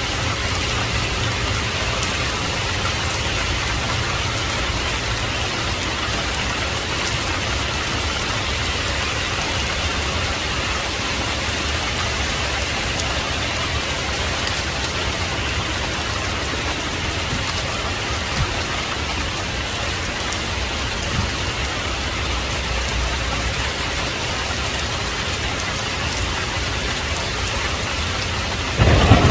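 Heavy rain falling steadily. Just before the end a thunderclap breaks in, sudden and louder, with a deep rumble.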